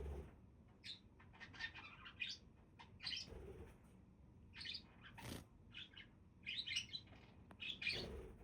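Budgerigars chattering and chirping: a run of short, broken warbling calls.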